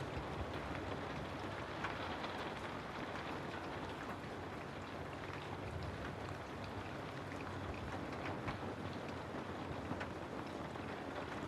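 Steady rain falling on a house: an even hiss with scattered sharper ticks of individual drops.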